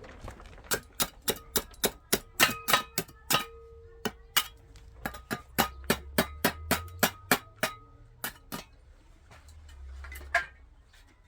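A hammer tapping in a quick, even run, about three sharp knocks a second for some eight seconds, some of the strikes leaving a faint ring.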